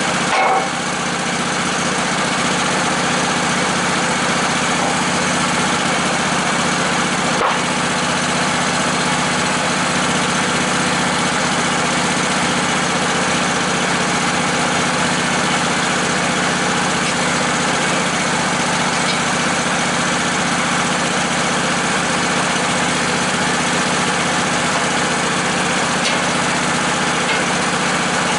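Sawmill engine running steadily at one constant speed, with a single short knock about seven and a half seconds in.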